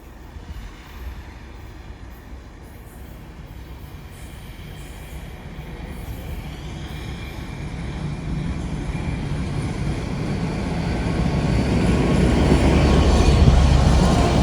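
A train approaching along the line, its deep rumble growing steadily louder and loudest near the end, with rail and wheel noise building above it as it closes in.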